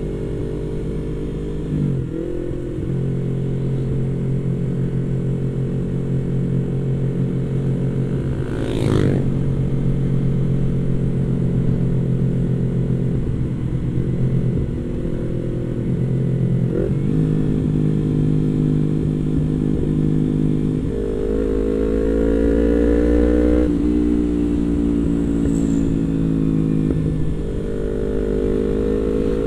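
Yamaha MT-25's parallel-twin engine running under way, its pitch holding and then stepping or gliding up and down every few seconds as the rider works the throttle and gears.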